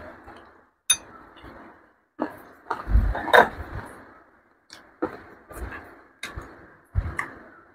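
A man eating fried chicken by hand and chewing with his mouth close to the microphone, with a string of short, sharp clicks and crunches between stretches of chewing.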